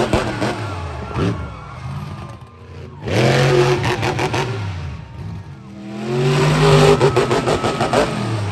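A monster truck's engine revving hard in repeated bursts: the pitch falls away at the start, climbs sharply about three seconds in, drops, then builds again toward the end, with rapid crackling over the high revs.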